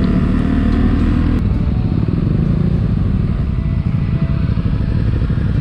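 BMW R1200GS flat-twin engine running at steady road speed, heard through a helmet microphone with the rush of riding wind.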